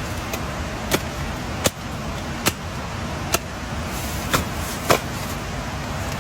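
Six sharp knocks, roughly one a second, over a steady rushing noise.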